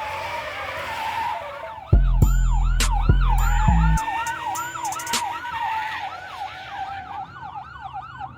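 An electronic siren yelping, its pitch sweeping up and down about four times a second, over a rap beat with heavy bass hits that drops out about four seconds in.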